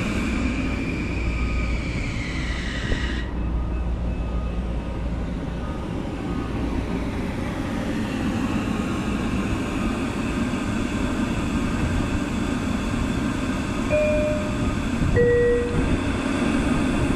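Long Island Rail Road Kawasaki M9 electric train coming to a stop: a high motor whine falls in pitch and cuts off about three seconds in, leaving the steady hum and rumble of the standing train. A two-note chime, the second note lower, sounds near the end.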